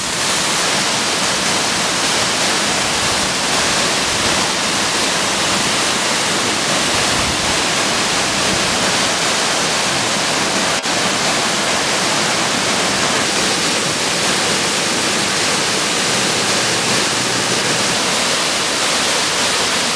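Waterfall pouring into a deep plunge pool: a steady, unbroken rush of falling water.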